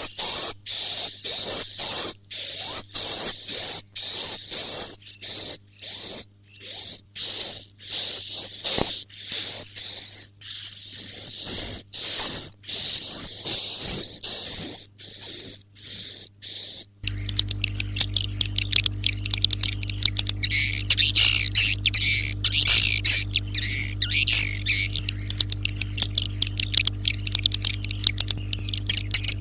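Swiftlets' high-pitched twittering 'inap' (roosting) call, the lure sound played to draw swiftlets into a bird house. Quick repeated chirps, about two a second, change about 17 seconds in to a denser overlapping chatter over a low hum.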